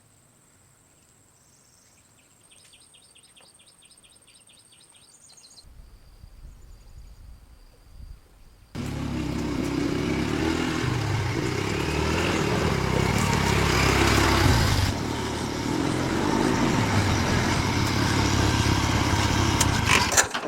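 A vehicle engine running, cutting in abruptly about nine seconds in after a stretch of near silence with faint high beeps.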